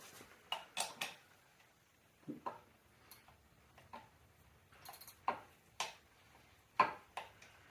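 Irregular metal clicks and clinks from a wrench as a pedal is threaded onto the bike's crank arm and tightened by hand feel. There are about ten short, sharp clicks, unevenly spaced, with a few close pairs.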